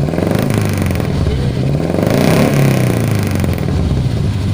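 Carburetted Toyota Kijang Futura engine running through its exhaust, with one rev about halfway through that rises in pitch and falls back.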